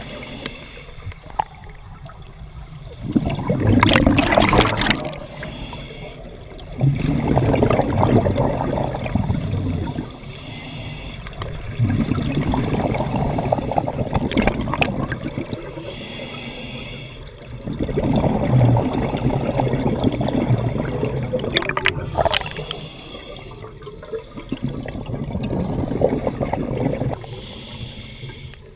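Scuba diver breathing through a regulator underwater: gurgling bursts of exhaled bubbles every few seconds, with quieter inhalations between them.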